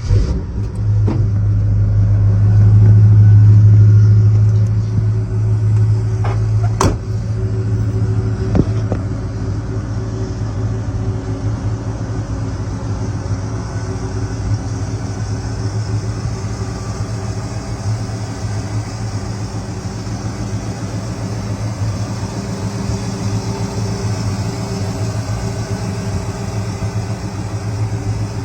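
Chevelle Malibu's 283 V8 running through a stainless Flowmaster exhaust, louder in the first few seconds and then settling to a steady idle, with a few sharp clicks early on.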